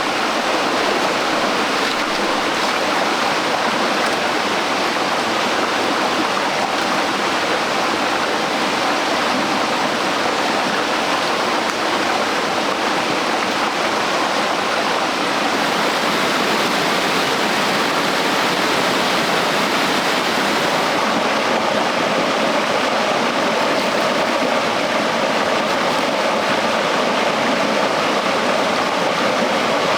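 Running water rushing steadily, like a stream or a small cascade.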